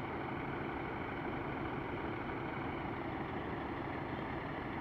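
Diesel multiple unit standing at the platform with its engine idling steadily.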